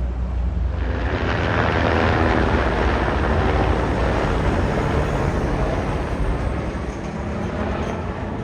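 A passing vehicle: a rushing noise swells about a second in and eases off after about six seconds, over a steady low rumble.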